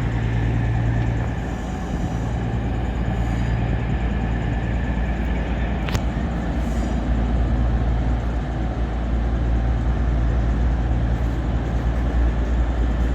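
Steady low rumble of diesel train engines running at a station platform, with a single sharp click about six seconds in.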